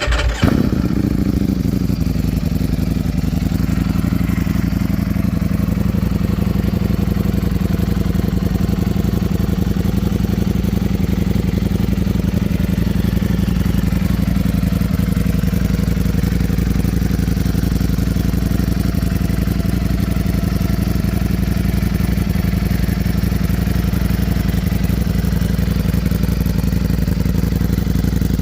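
Ducati Streetfighter V4S's V4 engine, breathing through a titanium Akrapovic exhaust, just after starting: a brief flare in revs right at the start, then it settles into a steady idle.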